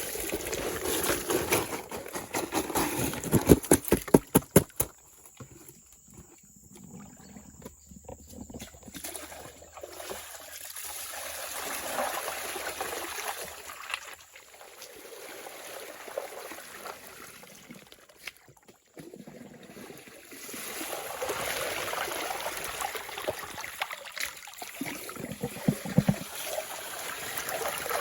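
Water trickling and splashing, with a quick run of sharp knocks between about three and five seconds in.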